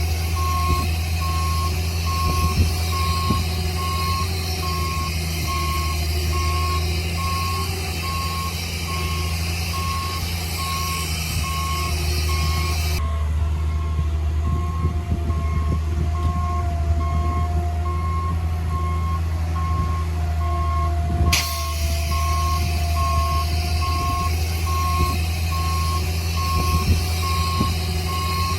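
Bulldozer's diesel engine running steadily under a reversing alarm that beeps in an even, repeating rhythm.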